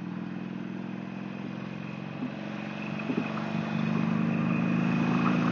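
Motorcycle engine running under way, a steady hum that grows louder about four seconds in.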